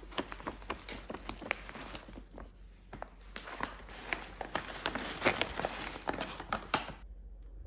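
Kitchen utensils and dishes being handled: a quick, uneven run of light taps and clicks, with a few sharper clicks near the end before it stops.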